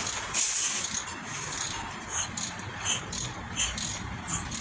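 Irregular metallic clicking and ratcheting from a wrench working on the engine as it is turned over by hand after the valve clearance adjustment.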